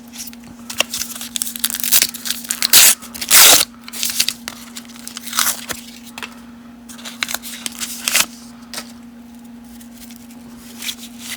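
Baseball cards and pack wrapper being handled: rustling and sliding of cards, with a louder tearing sound about three seconds in. A steady low hum runs underneath.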